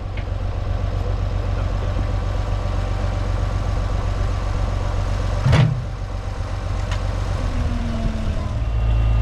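An engine running steadily at idle, with one sharp knock about five and a half seconds in.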